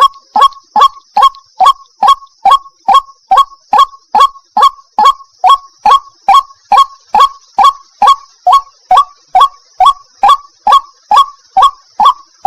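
White-breasted waterhen (ruak-ruak) giving its monotonous repeated call, about two and a half short falling notes a second, each alike. The uploader bills it as a female calling the male. A faint steady high hiss runs underneath.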